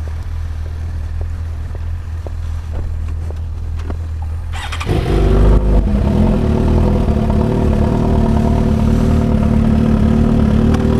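Motorcycle engine idling with a low rumble; about five seconds in, a louder engine starts running close by and holds a steady pitch.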